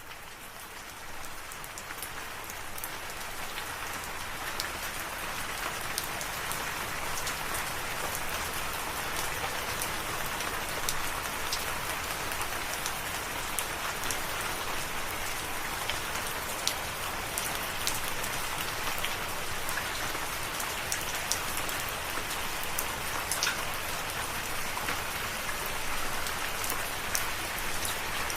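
Steady rain falling, with individual drops ticking sharply here and there. It fades up from quiet over the first second or so and then holds even.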